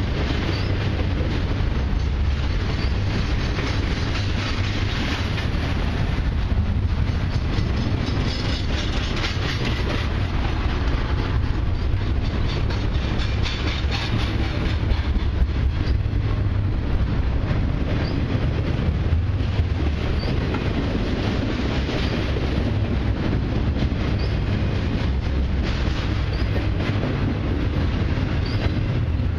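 Long intermodal freight train rolling steadily past: a continuous rumble with the clickety-clack of many wheels over the rail joints and a few faint, brief wheel squeals.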